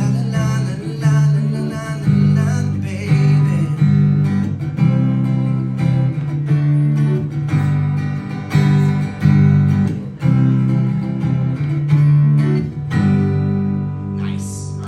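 Acoustic guitar strumming chords in a steady rhythm, with the chords changing every second or so.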